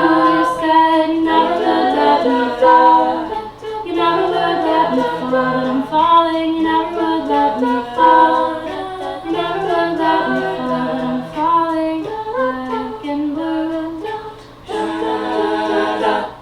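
A cappella vocal group singing in multi-part harmony, with no instruments. Near the end the voices stop briefly, then come back on one held final chord that ends the song.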